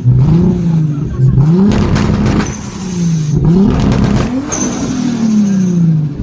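Car engine revved hard and repeatedly: its pitch climbs sharply and drops back about five times, and the last rev falls away slowly near the end.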